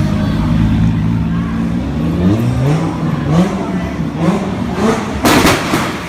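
Toyota Supra engine climbing in revs in a series of quick rising runs, each cut off by a drop in pitch. About five seconds in comes a loud burst of crackling exhaust pops and bangs.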